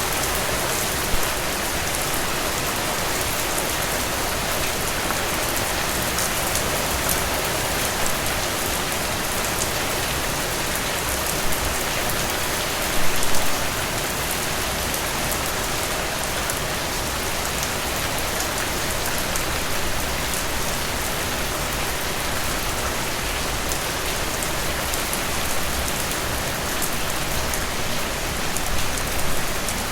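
Heavy rain falling steadily, with a dense patter of drops on surfaces and a few brief louder splats, the largest about halfway through.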